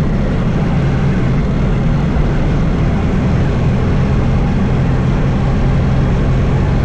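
Steady engine and road noise of a vehicle driving along a road, a constant low hum with an even rush of tyre and wind noise.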